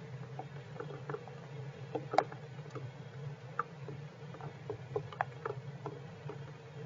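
Scattered, irregular taps of rain drops hitting the shelter, one louder tap a little after two seconds in, over a steady low hum.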